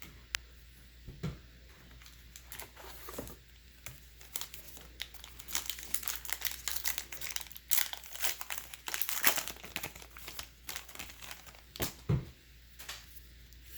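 Baseball card pack wrapper being torn open and crinkled by hand, an irregular crackle that is busiest in the middle.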